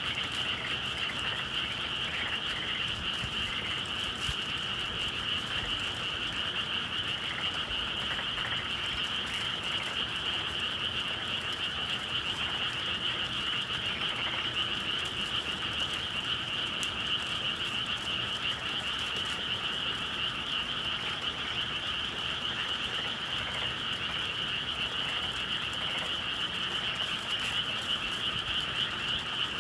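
Chorus of many frogs calling at once, a dense steady trilling that never breaks.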